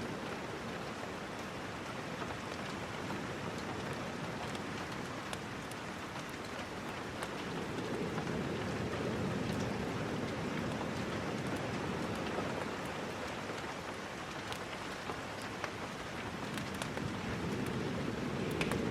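Steady rain falling, an even hiss with scattered sharp ticks and a slow swell in the low rumble now and then.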